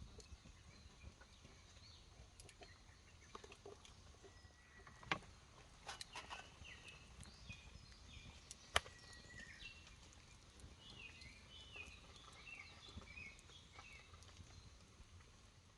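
Quiet outdoor ambience: birds chirping in short calls in two stretches, with two sharp snaps, the louder one a little past the middle.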